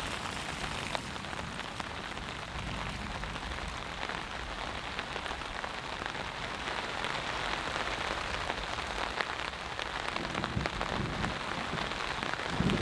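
Steady rain falling on a taut backpacking tarp overhead, heard from underneath as a dense patter of small drop taps. A low rumble comes in near the end.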